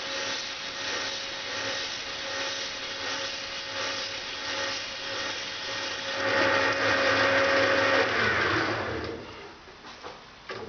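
Metal lathe running with a 70 mm cold-rolled steel bar spinning in it, being cleaned up with sandpaper, a steady rubbing hiss over the motor's hum. The sanding gets louder for a couple of seconds, then about eight seconds in the lathe is switched off and its pitch falls as it spins down.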